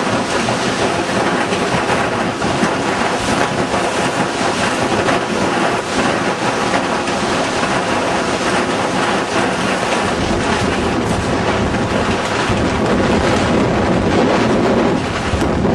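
Severe storm wind blowing hard with rain, a continuous loud rushing like a passing train, with wind buffeting the microphone. The rumble grows heavier from about ten seconds in.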